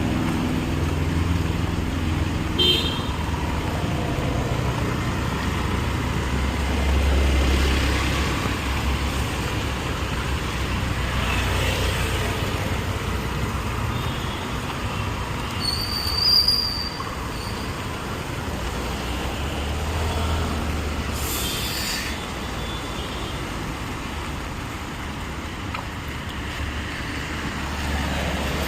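Busy street traffic: motor vehicle engines rumbling as they pass, swelling and fading several times, with a short high-pitched toot about halfway through.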